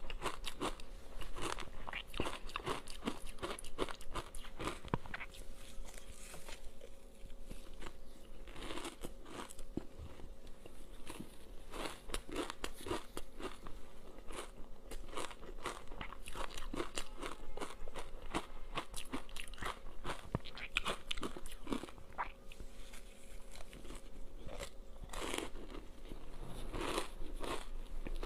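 Ice with matcha green tea powder being bitten and chewed close to the microphone: a dense, irregular run of crisp crunches with no let-up.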